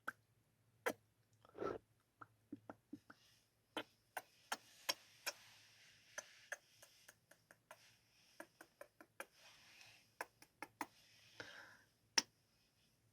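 Kissing sounds from a person's lips: a string of short, irregular smacks and clicks, with a faint breathy hiss under them in the middle.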